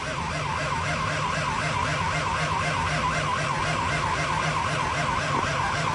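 Starter cranking a frozen Duramax 6.6 diesel V8 for about six seconds, whining with an even, wavering rhythm, then cutting off abruptly without the engine firing: a failed cold start at about −42°.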